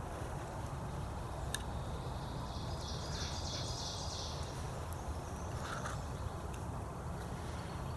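Woodland ambience: a steady low rumble, with a high trill lasting about a second and a half from about three seconds in, a short call near the end, and a few faint clicks.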